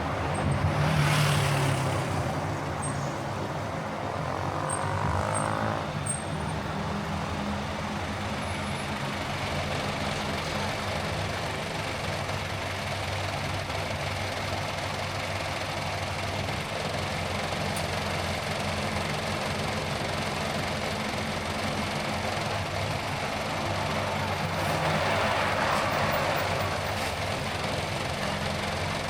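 Car driving at a steady speed, with a constant engine hum and road noise. The noise swells louder twice, briefly about a second in and again near the end.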